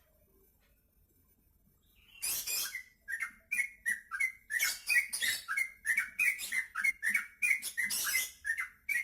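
Yellow-vented bulbul (trucukan) singing, a fast run of bubbly, chattering notes that starts about two seconds in.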